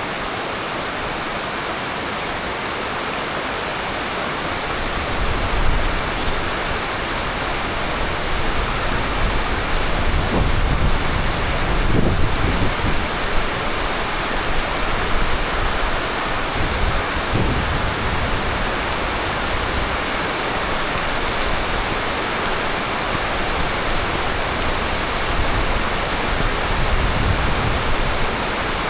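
Heavy tropical monsoon rain falling steadily, a dense even hiss. From about five seconds in, low rumbles swell and fade beneath it.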